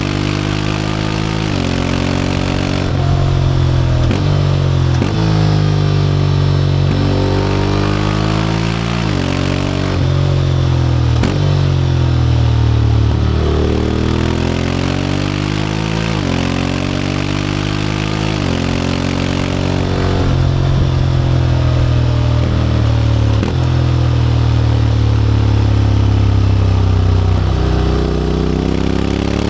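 Honda X-ADV 750 parallel-twin engine through an SC-Project titanium slip-on exhaust, accelerating under way. Its pitch climbs and drops back at each automatic gear change, several times over, and in the middle it falls away as the throttle eases before climbing again.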